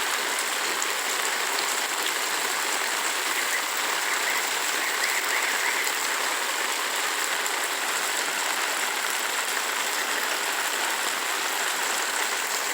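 Heavy rain with floodwater rushing down a street like a river, a steady unbroken hiss.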